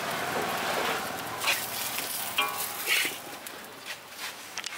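Pancake batter sizzling in a hot wok, with a few short sharp scraping sounds about a second apart. The frying turns quieter near the end.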